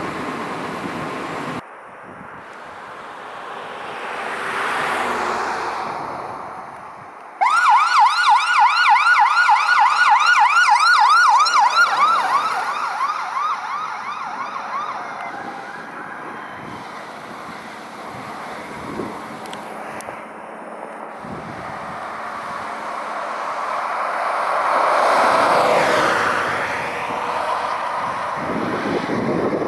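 Emergency vehicle siren on a fast yelp, rapid rising-and-falling sweeps about three or four a second. It comes in suddenly and loudly about a quarter of the way in and fades away after about five seconds. Passing traffic rises and falls before and after it.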